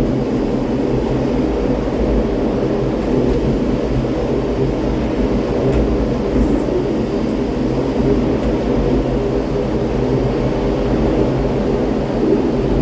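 Steady mechanical drone: a low rumble with several steady humming tones, unchanging throughout.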